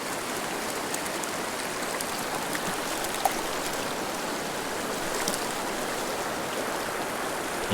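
Steady rush of a small mountain river's flowing water.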